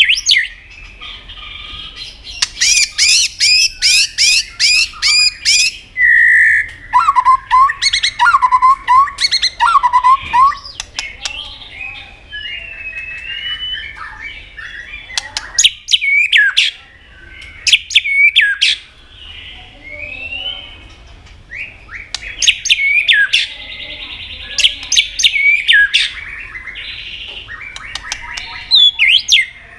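White-rumped shama singing a varied song: phrases of rapid, sharp high notes, a run of lower whistles, and short pauses between phrases.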